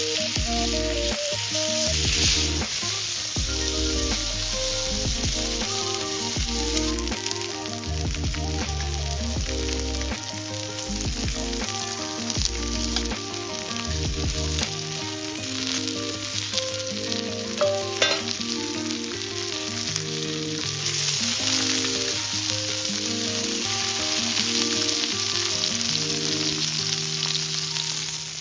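Steak frying over a campfire, a steady dense sizzle that drops away right at the end. Background music with a bass line and melody notes plays under it.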